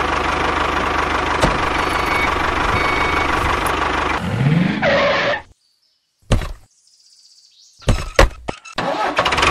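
Tractor engine idling steadily, which cuts off suddenly about five seconds in. A few short clicks and knocks follow near the end as the toy trailer's plastic hitch is handled.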